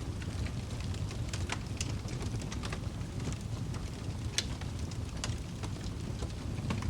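Wood fire burning in a fireplace: a steady low rumble with scattered sharp crackles and pops, the loudest about four seconds in.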